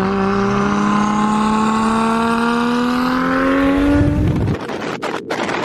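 A car engine accelerating hard, its note rising steadily in pitch for about four seconds. It breaks off about four seconds in, giving way to a rougher, even noise.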